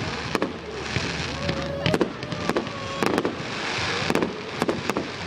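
Fireworks display: a quick, irregular string of sharp bangs and cracks over a steady hiss.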